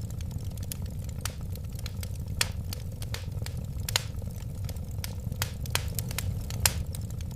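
Wood fire crackling: irregular sharp pops and snaps over a steady low rumble of the burning flames, with a few louder pops scattered through.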